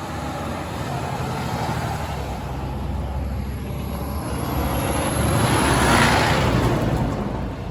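Fire engine's diesel engine running with a steady low rumble, joined by a rush of noise that swells to its loudest about six seconds in and then fades.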